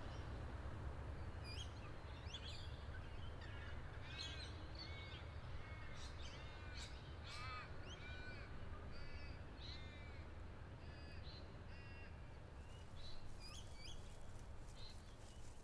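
Birds calling: many short, harsh calls repeated in clusters through most of the stretch, thinning out near the end, over a faint steady low rumble of outdoor ambience.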